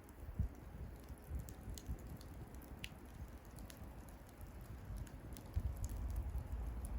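Wood bonfire crackling, with irregular small pops and one sharper snap about three seconds in, over a low rumble that grows louder after about five and a half seconds.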